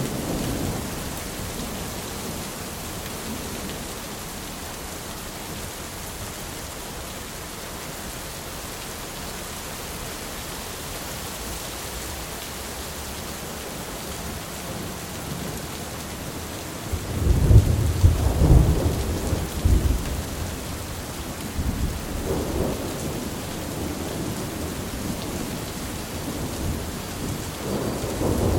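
Steady rain hissing, with rolls of thunder: a loud deep rumble about two-thirds of the way in, quieter rumbles after it, and another building near the end.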